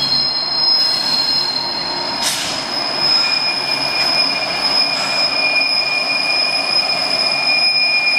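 Freight train's diesel locomotives rolling past on a tight curve, their steel wheels squealing against the rails in several steady high-pitched tones over the running of the engines and wheels. A further squeal tone joins about two and a half seconds in, just after a brief sharp noise.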